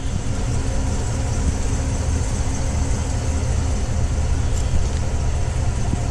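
2025 Chevrolet Tahoe High Country's engine idling steadily: a low, even hum.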